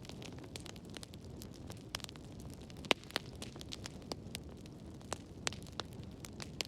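Wood fire in a fireplace crackling: scattered sharp pops and snaps over a low, steady rumble of the flames, the loudest pop coming about three seconds in.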